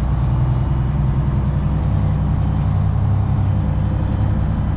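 Freightliner Classic XL semi truck's Detroit Diesel 12.7-litre engine running at a steady low drone, heard from inside the cab as the truck rolls slowly.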